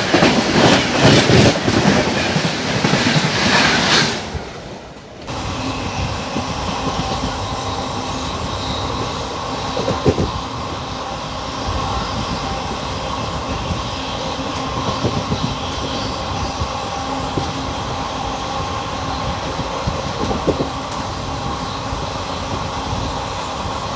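Indian Railways express train running past with wheels clattering over the rail joints, loud for the first few seconds. After a short dip about five seconds in, a steadier train sound follows: a steady hum with a few sharp knocks.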